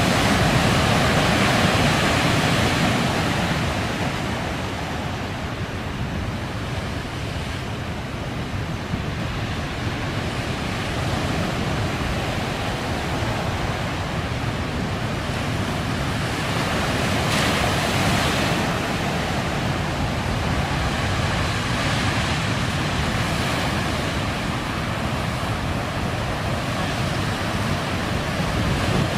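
Heavy storm surf from a typhoon-driven sea breaking continuously along the coast, a dense unbroken wash of waves with wind on the microphone. It is loudest at the start and surges again about two-thirds of the way through.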